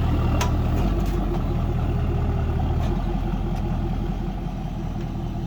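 Tow truck's engine running steadily at idle, with a few faint clicks over it.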